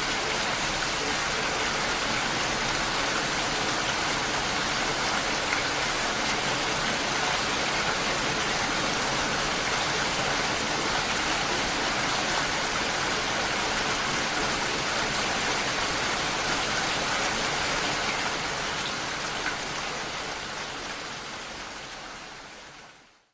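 Steady, dense rainfall with no thunder, fading out over the last few seconds.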